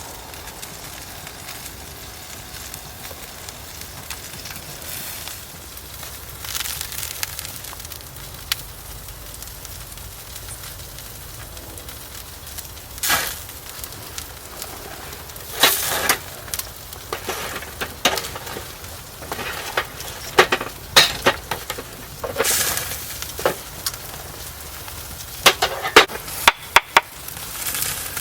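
Wood fire in a fire pit crackling, with a steady hiss and sharp pops that come more often in the second half.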